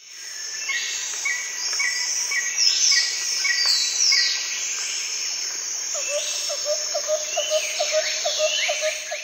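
Tropical rainforest ambience: many birds calling with falling whistles and repeated chirps over a steady high insect hiss. From about six seconds in, a quick run of low calls repeats about four times a second. The sound fades in at the start.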